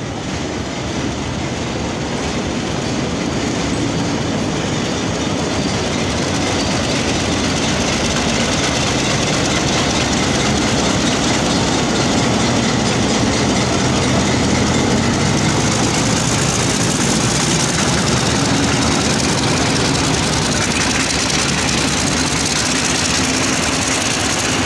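Pakistan Railways Hitachi diesel-electric locomotive hauling a passenger train past at close range. The engine grows louder over the first several seconds as it nears. The coaches then roll by with a steady hiss and rumble of steel wheels on the rails that brightens in the second half.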